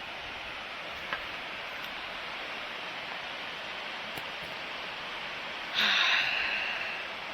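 Steady rush of creek water. There is a small click about a second in, and a brief louder burst of noise nearly six seconds in that fades over about a second.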